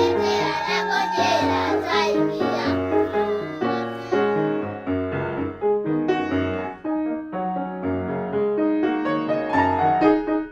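Solo piano playing a lively passage of struck notes and chords that change every fraction of a second, with busier high-register figures in the first couple of seconds and again near the end.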